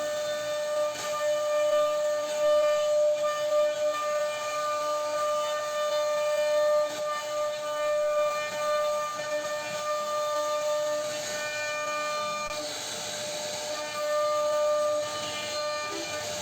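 CNC router spindle whining at a steady high pitch while its bit cuts into wood, with a hiss of cutting noise that rises and falls with the load.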